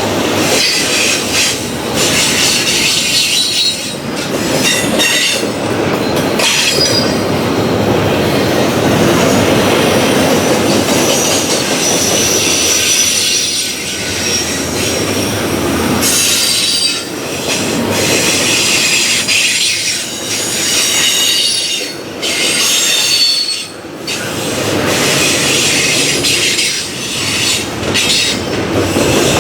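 Freight cars rolling past: steady rumble of steel wheels on the rail, with high-pitched wheel squeal coming and going.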